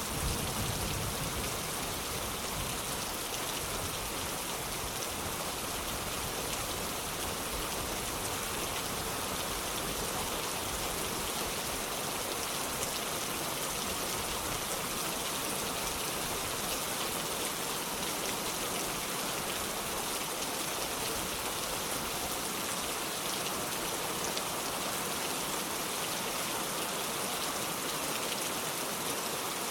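Heavy rain drumming steadily on a metal roof, a dense even patter of drops. The low rumble of thunder dies away in the first second or so.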